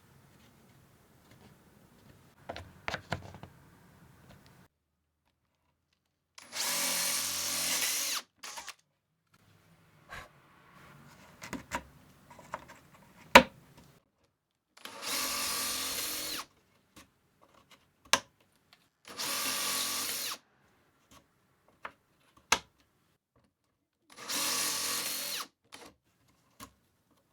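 A power drill running in four short bursts of about a second and a half each, with clicks and knocks of handling in between.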